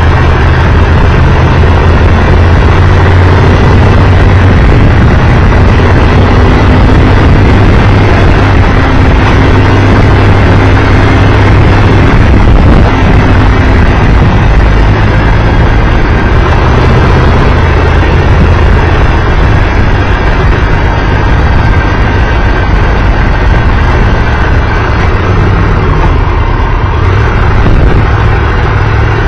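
Triumph Tiger Explorer 1200 motorcycle under way: loud, steady wind rush on the microphone over the low drone of its three-cylinder engine, with no breaks.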